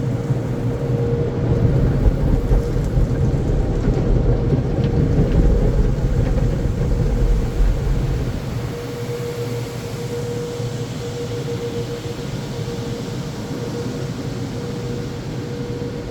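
Automatic conveyor car wash machinery running around the car, heard from inside the cabin: a continuous rumble and wash noise with a steady hum. The low rumble eases about halfway through.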